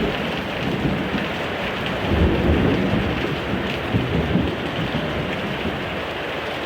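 Heavy thunderstorm downpour: steady, dense rain noise, with a low rumble of thunder swelling about two seconds in and again briefly around four seconds.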